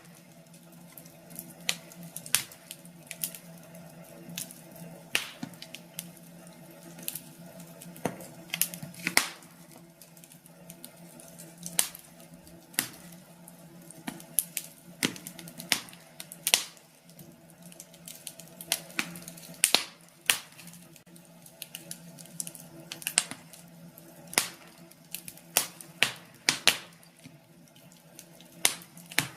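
Wood fire crackling in a fireplace: irregular sharp pops and snaps, one to three a second, over a steady low hum.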